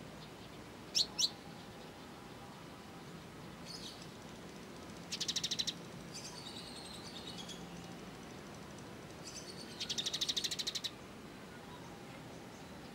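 Small songbird calling: two sharp high chirps, then two short, rapid trills of fast even notes, the first about five seconds in and the second about ten seconds in.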